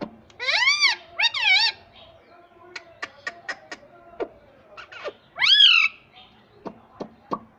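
Indian ringneck parakeet calling: two loud squawks with rising and falling pitch near the start, then a third call about five and a half seconds in that rises and falls. Short sharp clicks come between and after the calls.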